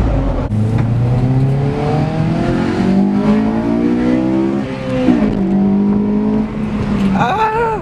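Car engine being revved while parked: its pitch climbs steadily for about four seconds, drops sharply, then holds at a lower steady rev before being let off near the end.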